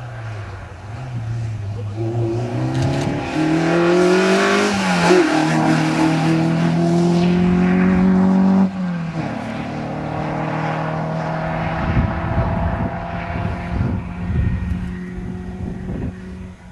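Peugeot 205 rally car's engine revving hard under acceleration, its pitch climbing with a brief dip for a gear change about five seconds in. The note then drops abruptly about eight and a half seconds in and runs on at a steadier, lower pitch as the car pulls away.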